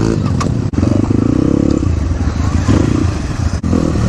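Dirt bike engine running while riding off-road, the revs rising and falling, with two brief sharp drops in the sound.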